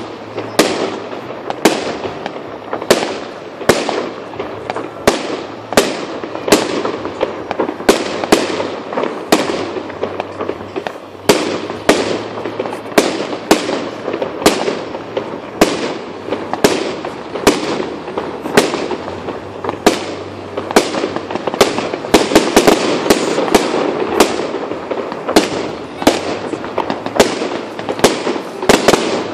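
Fireworks display: a steady run of sharp aerial shell bangs, about one or two a second, over a continuous noisy background, growing denser and louder about two-thirds of the way through.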